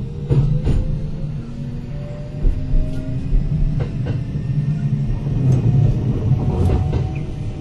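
Running sound inside a Kintetsu 8000 series electric train car under way: a steady rumble with a motor and gear whine that slowly rises in pitch as the train picks up speed, and clacks from the wheels crossing rail joints several times.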